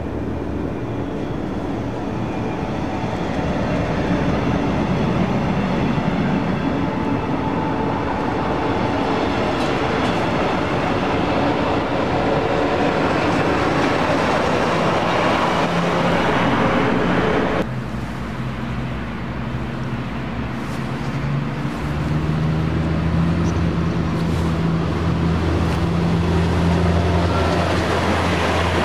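A double-deck regional train with a class 143 electric locomotive rolling past, the wheel-on-rail rumble building as the locomotive comes by. After an abrupt cut, a class 642 Desiro diesel railcar passes with its diesel engines running in a steady low drone.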